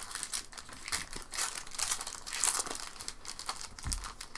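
Foil wrappers of Topps baseball card packs crinkling and tearing as packs are ripped open and handled, with a soft thump near the end.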